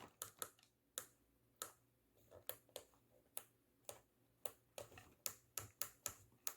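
Pushbuttons on a Garmin GMA 347 audio panel being clicked one after another, about twenty faint sharp clicks at uneven spacing, coming a little faster near the end, as the buttons are tested to see whether they work.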